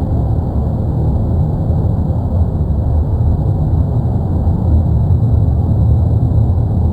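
Deep, steady roar of the erupting La Palma volcano (Cumbre Vieja), a continuous low rumble with no breaks.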